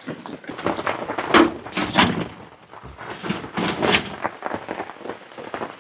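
A run of knocks and thumps with rustling, from gear being handled and set into the back of a pickup truck, loudest about a second and a half in and again near four seconds.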